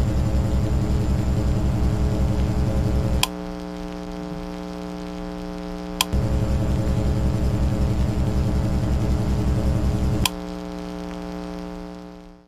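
Electric motor running with a low pulsing hum over a steady electrical hum; it stops with a click about three seconds in, starts again with a click about six seconds in, and stops with another click about ten seconds in. The hum then fades out near the end.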